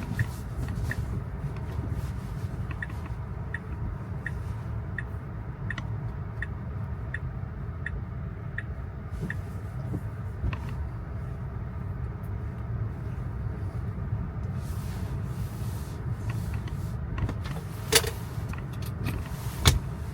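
Inside a Tesla driving on wet roads: a steady low rumble of tyre and road noise. A light regular ticking comes about every 0.7 seconds through the first half, and two sharp clicks stand out near the end.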